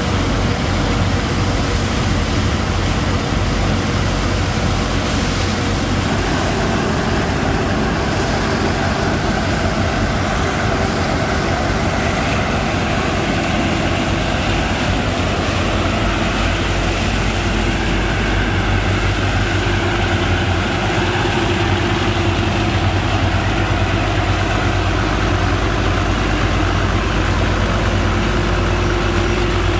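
Sand-pumping engine on a sand boat running steadily, with a slight change in its tone about six seconds in.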